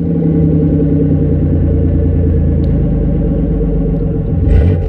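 Buick Century engine idling steadily just after starting, its exhaust running through an aftermarket Flowmaster muffler. Near the end it begins to rev up.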